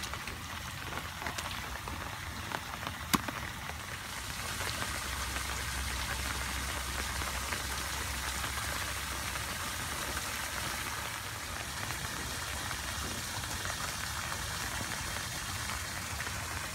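Steady rain falling on wet pavement and puddles, with one sharp click about three seconds in.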